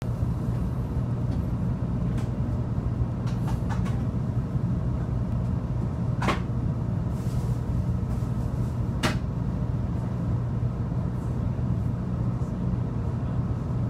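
Steady low hum and rumble inside a Shinkansen car as the train pulls away from a station, with two sharp clicks or knocks about six and nine seconds in.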